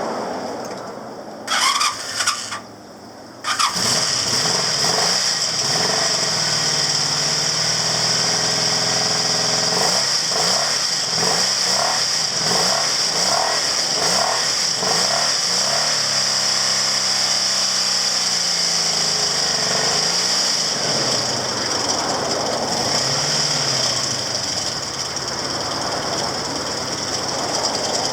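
Honda VF750 V4 motorcycle engine being started: a couple of short bursts of cranking, then the engine catches about three and a half seconds in. It is blipped up and down several times before settling to a steady idle.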